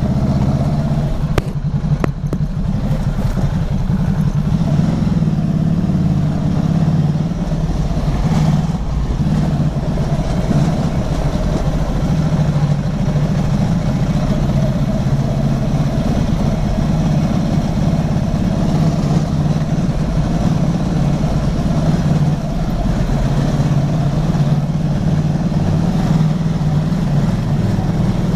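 Motorcycle engine running steadily while riding at road speed, with a steady rush of noise above the engine hum and two short clicks about a second and a half and two seconds in.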